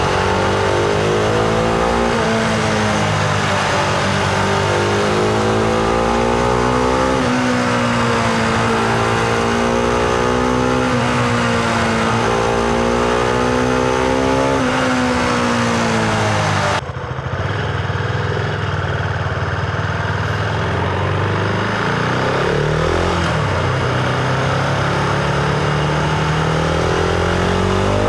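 Husqvarna Vitpilen 701's single-cylinder engine heard onboard while riding, the revs climbing and dropping again and again as it pulls through the gears. About 17 seconds in the sound turns suddenly duller, and the engine runs at lower revs before slowly rising again near the end.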